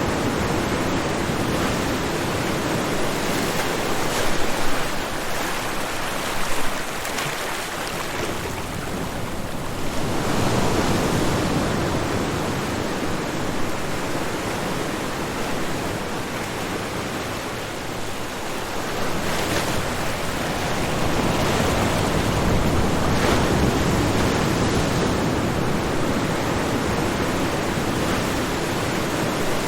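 Ocean surf washing onto the shore: a steady rushing noise that swells twice as waves break, about ten seconds apart.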